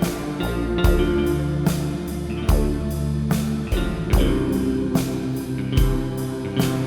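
Electronic keyboard or home organ playing a slow melody in a plucked, guitar-like voice over a steady accompaniment beat, a drum hit a little more often than once a second.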